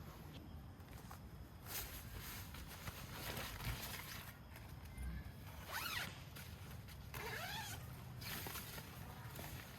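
A zipper being pulled in several short strokes.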